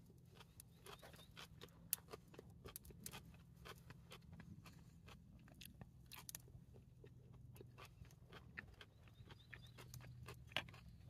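Faint close-up chewing of a mouthful of pan-fried spring king bolete (porcini) with snow peas: soft crunches and wet mouth clicks, with one sharper click about two seconds in, over a low steady hum.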